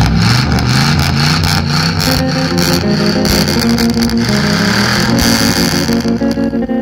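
A large classic American car's engine being revved again and again in short rising blips, mixed with rock music carrying guitar.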